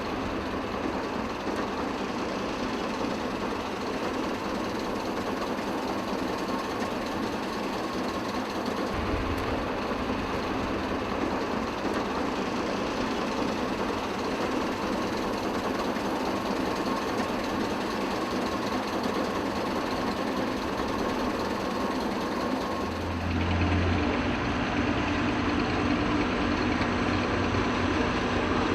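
Steady rushing noise of a truck wash, with heavy truck engines running. About 23 seconds in, the sound changes abruptly to a louder mix with a deeper engine drone.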